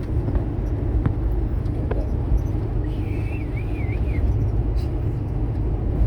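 Steady low rumble of engine and road noise inside a moving vehicle's cab, with a few faint ticks. A brief wavering high tone comes through about three seconds in.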